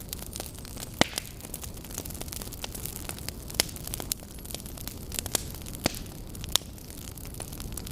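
Campfire burning and crackling: irregular sharp pops and snaps from the burning wood, a few of them much louder, over a steady low rushing of the flames.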